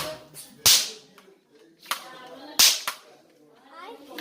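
Bang snaps (estalinhos) thrown against a wall, going off in several sharp cracks about a second or two apart.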